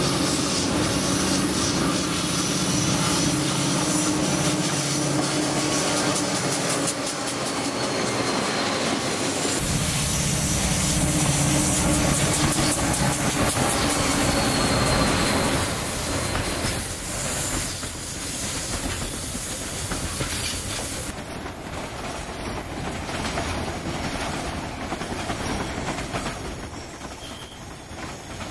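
Diesel freight locomotives running past with a steady engine drone, then the train's cars rolling by, with wheels squealing on the curved track and clickety-clack over the rail joints.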